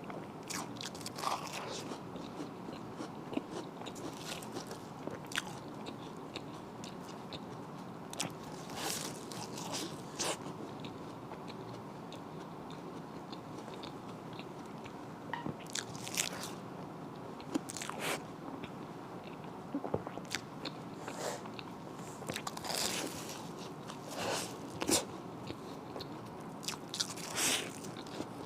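A person chewing and biting food close to the microphone, with irregular sharp mouth clicks every second or two over a steady low hiss.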